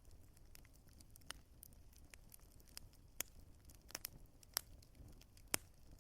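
Burning wood crackling faintly: irregular sharp pops over a low, steady rumble, the loudest pop about five and a half seconds in.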